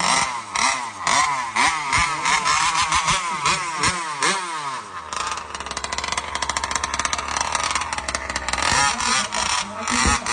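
Mini drag motorbikes powered by small grass-cutter engines revving, several engines overlapping with pitch rising and falling. From about halfway in they settle into a steadier high-revving run for a few seconds, then rev up and down again near the end.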